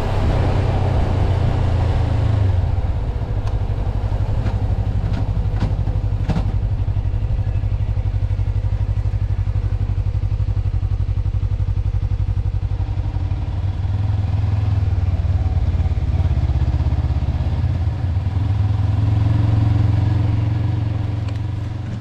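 Suzuki V-Strom motorcycle's V-twin engine running with a steady low pulse, growing louder about two-thirds of the way through.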